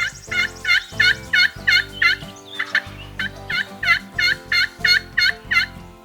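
Turkey yelping: two runs of about seven evenly spaced, high yelps, roughly three a second, with a short pause between them. Faint background music plays underneath.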